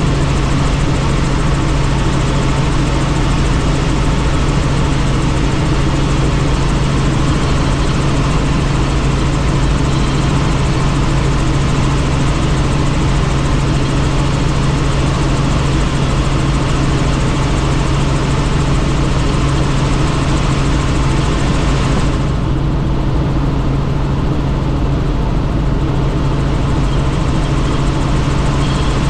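Helicopter in steady flight: a loud, unbroken drone with a constant low hum under rushing noise. The hiss at the top end drops away about 22 seconds in.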